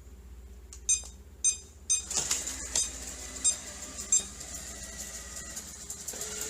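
Robot vacuum cleaner beeping several times, then its motor starting up and running steadily, with a few more beeps over it.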